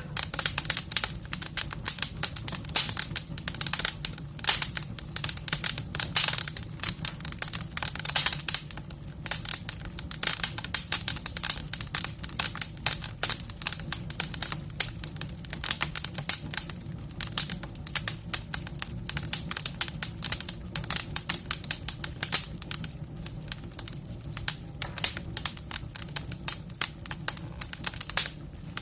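Wood fire in a fireplace crackling, with dense, irregular snaps and pops over a steady low sound underneath.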